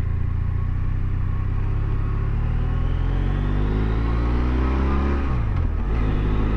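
Motorcycle engine accelerating under load, its pitch climbing steadily through one gear, then dropping briefly for an upshift about five and a half seconds in before climbing again.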